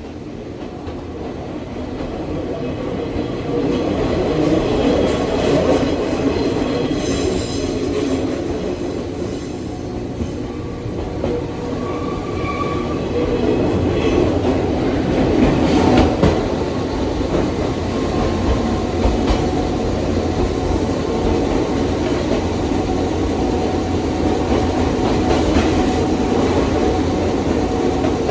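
Nankai 2200-series train car heard from inside while running: a steady rumble of wheels on rail that grows louder over the first few seconds, with brief high squeals from the wheels about seven seconds in and again about twelve seconds in.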